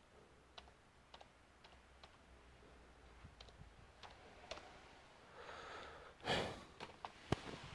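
Scattered faint clicks of a computer mouse and keyboard, with a short louder rustle about six seconds in and a couple of sharper clicks near the end.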